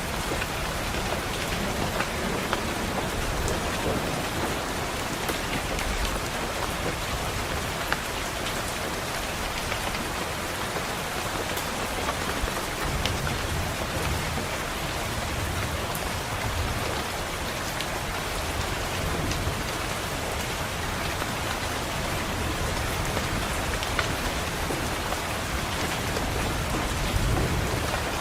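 Steady rain against a window glass, with low rumbles of thunder swelling up now and then, strongest about halfway through and again near the end.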